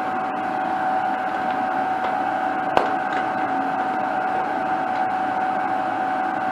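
Welding machine switched on and running idle: a steady hum with a thin, constant whine, and a single sharp click about three seconds in.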